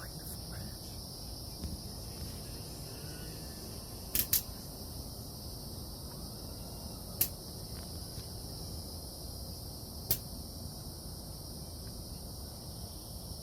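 Night-time insect chorus, a steady high-pitched trilling, with a few sharp clicks: two close together about four seconds in, then single clicks around seven and ten seconds.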